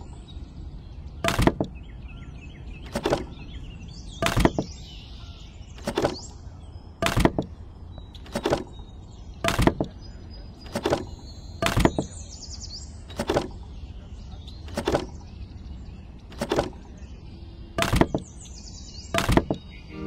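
Sharp knocks repeating evenly, about one every second and a half, some fifteen in all, over a steady low hum.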